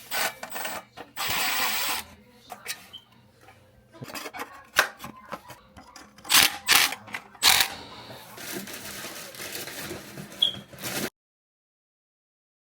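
Irregular clicks, clatter and scraping of things being handled, with a louder steady rush about a second in. The sound cuts off suddenly to dead silence about a second and a half before the end.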